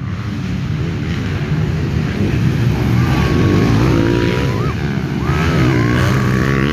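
Dirt bike engines running and revving, rising and falling in pitch. Twice, a few seconds in and again near the end, a high held tone sounds over them.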